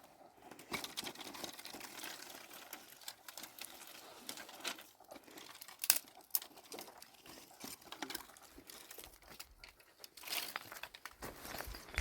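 Dry brush and twigs crackling and rustling in irregular clicks and snaps, with a sharper snap about six seconds in.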